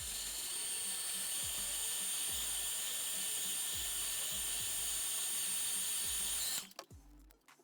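Small high-speed electric rotary tool, a drill or grinder, running with a steady high whine and cutting off abruptly about six and a half seconds in. Background music with a regular beat plays underneath.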